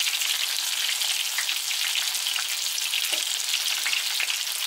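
Stripe-peeled eggplants frying in hot oil in a pan, nearly browned: a steady sizzle with fine crackling.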